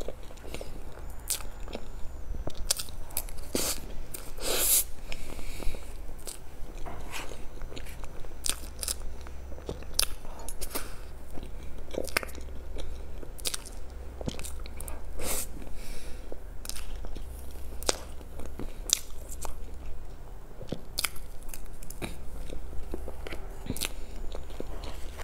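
Close-miked eating of a layered cream cake with chocolate pieces: soft wet chewing and mouth smacks, with many irregular sharp clicks.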